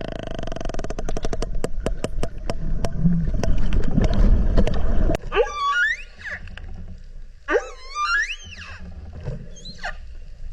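Underwater calls of a toothed whale: a train of clicks that speeds up over the first five seconds, then two long rising whistles with overtones and a short one near the end.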